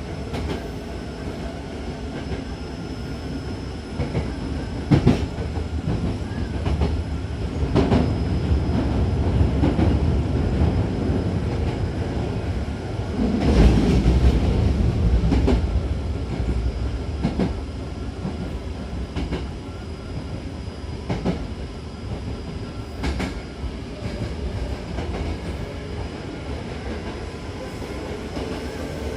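Hankyu 6000-series electric train in motion, heard from inside the car: a steady low running rumble of wheels on rails, with sharp clicks as the wheels cross rail joints and points. The rumble swells loudest about halfway through.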